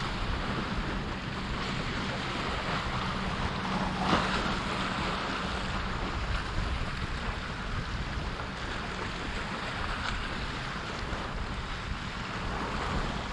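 Steady wind noise on the microphone over ocean surf washing on the beach, with one brief louder gust or splash about four seconds in.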